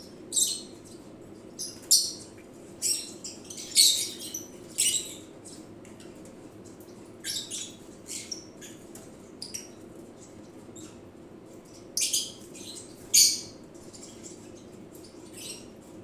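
Lovebird giving short, sharp, high-pitched chirps at irregular intervals, about a dozen in all, bunched in the first few seconds and again past the middle: a male calling again and again to his ailing mate. A steady low hum runs underneath.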